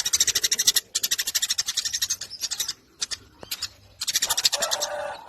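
Eurasian tree sparrow chattering nonstop: long runs of very fast, dry, scratchy notes broken by short pauses, with a lower, drawn-out call joining near the end.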